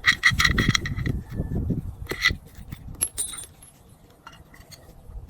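Small metal parts clinking and rattling as they are handled, busy for the first two seconds and then thinning to a few scattered ticks.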